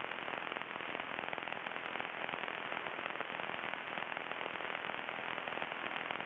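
Steady crackling static hiss on the aircraft's radio and intercom audio feed, a dense patter of crackles over a hiss with nothing above a mid pitch: the radio crackling badly.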